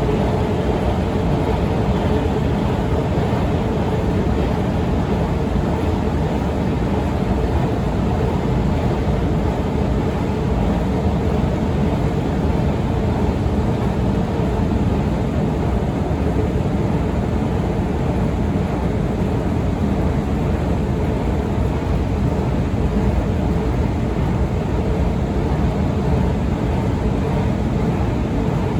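Otis escalator running, a steady mechanical rumble with a faint constant hum and no break or change.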